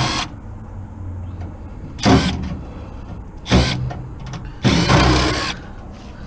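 A vehicle running with a steady low rumble, broken by four short bursts of rushing noise.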